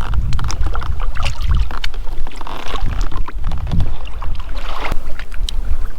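Wind buffeting the microphone in an uneven, gusty rumble, with scattered light clicks and knocks.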